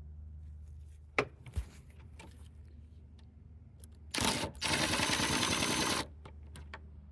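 Drill with a hex bit spinning briefly, then running steadily for about a second and a half before stopping sharply: a bolt of the air filter housing being driven out. A couple of light clicks about a second in as the bit meets the bolt.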